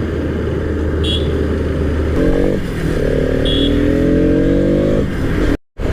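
Small motorcycle engine running on the move, with wind and road noise. It picks up revs twice, its pitch rising about two seconds in and again from about three seconds. Two short high beeps come near 1 s and 3.5 s, and the sound drops out briefly near the end.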